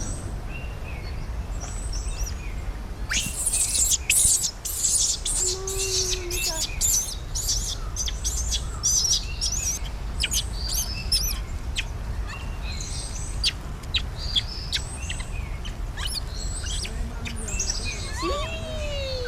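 Small birds chirping in many quick, high notes, busiest a few seconds in, over a steady low rumble.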